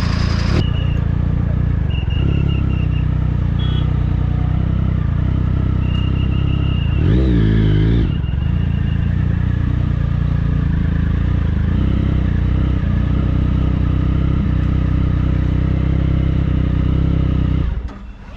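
Triumph Speed Triple 1050's inline three-cylinder engine running through an SC Project aftermarket exhaust, holding a steady pitch with one quick rev blip about seven seconds in. The engine sound cuts off shortly before the end.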